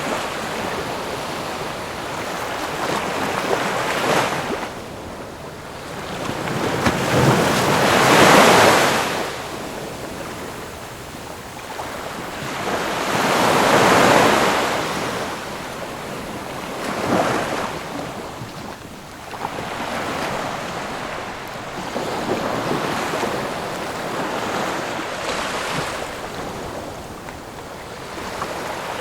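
Ocean waves breaking and washing on shore in slow surges every few seconds, the strongest about a third and half of the way through.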